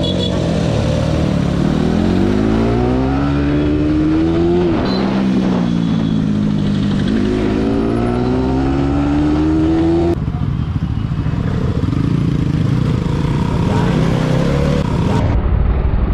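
Motorcycle engine accelerating hard. Its pitch climbs through one gear, breaks for a shift about five seconds in and climbs again, then the throttle shuts off about ten seconds in and the engine runs lower and steadier.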